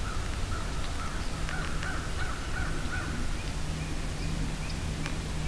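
A bird calling in a run of short repeated notes, about three a second, that stops about three seconds in; fainter, higher calls follow.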